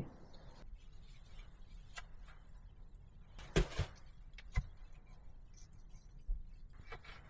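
A few short, sharp knocks over a quiet background: two close together about three and a half seconds in, another a second later, and a fainter one near the end.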